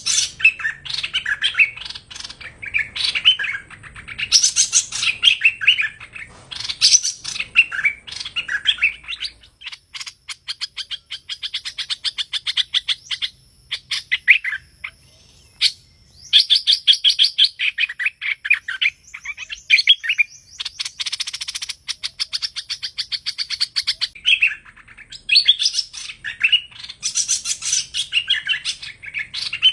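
Song of the hoành hoạch bird used as a trapping lure: quick chirped and warbled phrases, then long rapid trills of fast-repeated notes broken by short pauses, then warbled phrases again near the end.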